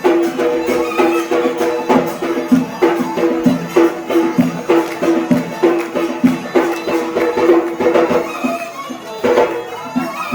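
Yemeni mizmar, a reed pipe, playing a traditional folk melody on a held, reedy tone over a steady drum beat.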